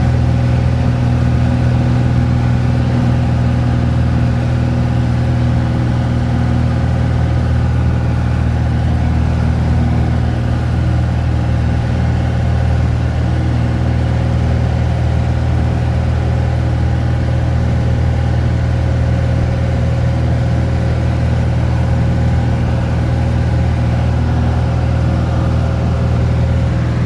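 Airplane engines droning steadily, heard from inside the cabin: a loud, even, low hum with several fixed tones that does not change in pitch or level.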